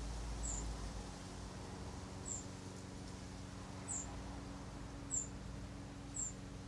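A small bird chirping: five short, very high chirps, each slipping slightly downward, spaced a second or more apart, over a faint steady hum.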